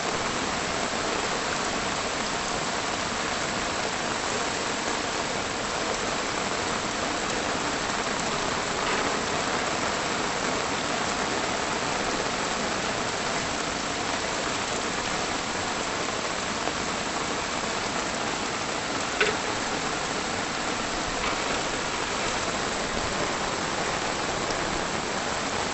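Rain falling steadily, an even hiss, with one sharper tap late on.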